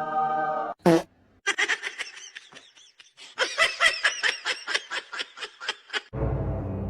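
High-pitched laughter, a fast run of short 'ha' pulses at about four a second, lasting some four and a half seconds. It is preceded by a steady held tone and a quick falling squeak, and music comes in near the end.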